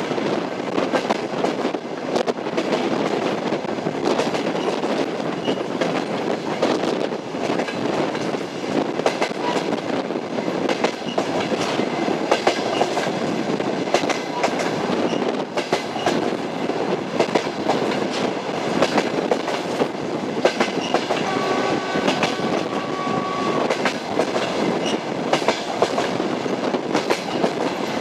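Train wheels running over the rails with a steady rumble and repeated clickety-clack over the rail joints. A brief steady high tone lasts about two seconds a little past the middle.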